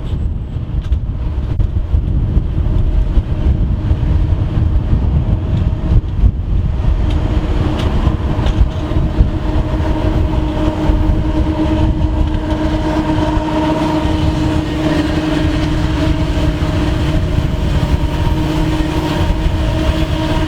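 Train running close by: a loud, steady rumble of a locomotive and cars on the rails. From about a third of the way in, a steady pitched tone is held over the rumble.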